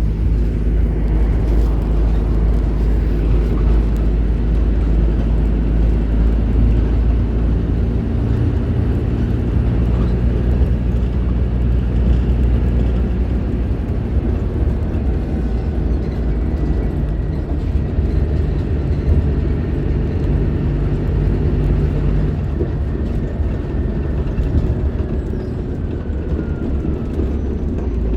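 Diesel engine of a Scania K310IB bus running under way, a steady low rumble whose pitch shifts several times as engine speed changes. A faint falling whine comes in during the second half.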